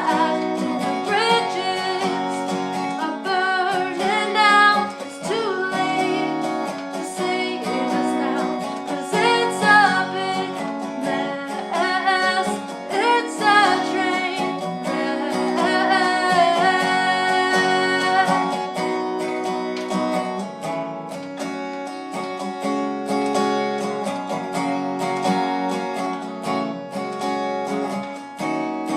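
A song with a voice singing over strummed acoustic guitar; the singing stops about two-thirds of the way through, leaving the guitar playing on its own.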